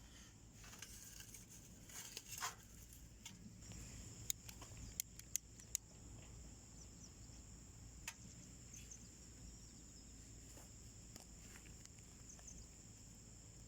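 Wood burning in a small homemade wood stove, crackling faintly with a few sharp pops near the middle, over a steady high chirring of insects.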